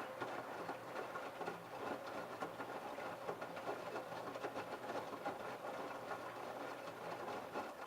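LG F1222TD direct-drive washing machine drum turning during the prewash, with a steady motor hum under the sloshing and pattering of water and laundry. The drum stops near the end and the sound drops away suddenly.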